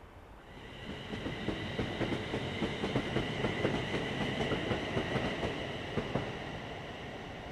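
A London Midland Class 350 Desiro electric multiple unit running through the station, its wheels clicking and clacking over rail joints and points under a steady high whine. It grows louder about a second in and fades near the end.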